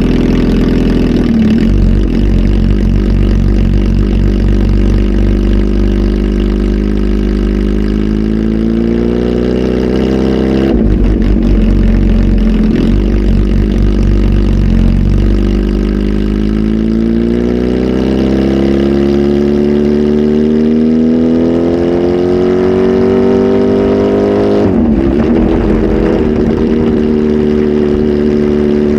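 Kawasaki Z H2 SE's supercharged inline-four, flash-tuned with a full exhaust system, idling and being revved twice. The pitch climbs for a few seconds and drops abruptly when the throttle shuts, then climbs more slowly for about nine seconds before snapping back to idle near the end.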